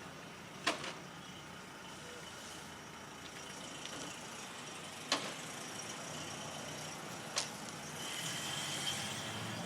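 Steady low hum of a vehicle engine running, broken by three sharp clicks, with a faint high whine joining near the end.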